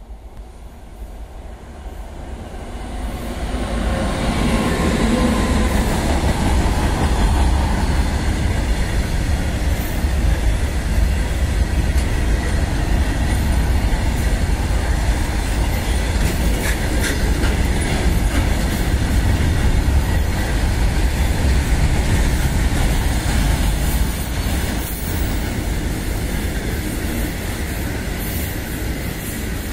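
Freight train hauled by an electric locomotive passing close by: the noise rises over the first four seconds as the locomotive comes up and goes past, then a long string of covered goods wagons rolls by with a steady rumble and clatter of wheels on the rails.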